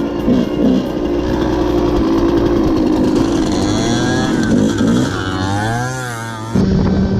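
Dirt bike engine running, its pitch swinging up and down in quick waves in the second half as it revs, with an abrupt change in the sound near the end.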